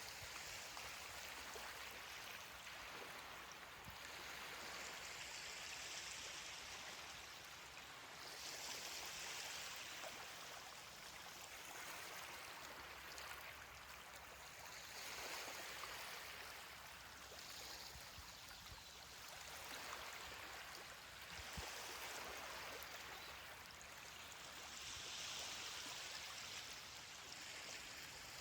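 Ocean waves washing onto a beach: a steady hiss of surf that swells and fades every few seconds as each wave breaks and runs up the sand.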